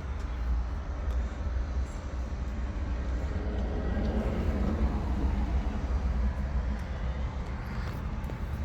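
A vehicle engine running steadily at a low idle, with a rougher swell lasting a few seconds in the middle.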